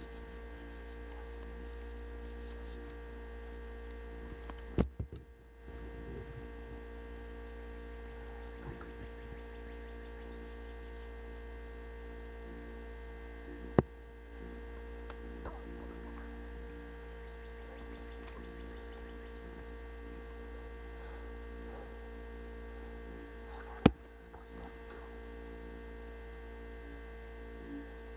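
Steady electrical hum made of several fixed tones, broken by three sharp cracks about ten seconds apart.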